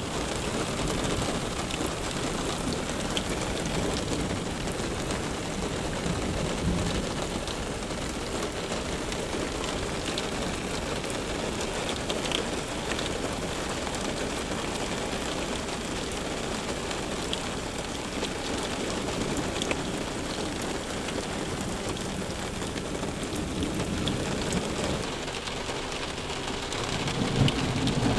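Steady heavy rain falling on pavement, with scattered drops ticking close by. A low rumble of thunder builds near the end.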